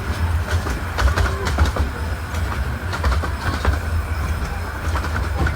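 A 15-inch gauge miniature railway train running on the track: a steady low rumble with irregular clicks from the wheels over the rails.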